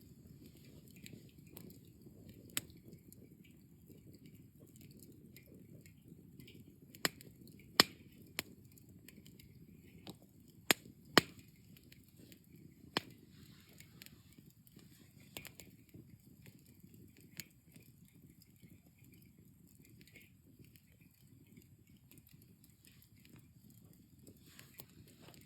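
Wood campfire burning down to embers, with a low steady noise and scattered sharp crackling pops, the loudest clustered in the middle.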